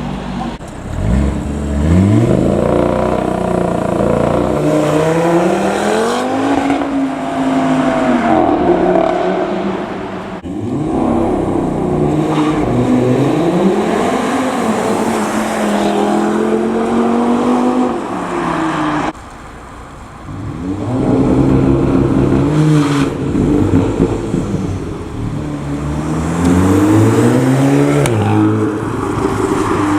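Car engines revving and accelerating hard, their pitch climbing and falling back again and again. The sound cuts off abruptly and restarts about a third and two thirds of the way through.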